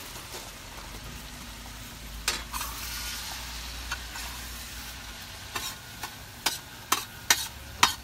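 Chopped bacon sizzling in a stainless steel pan on a propane cooker, a steady frying hiss. A utensil stirs and knocks against the pan now and then, with a quick run of sharp clicks in the last few seconds.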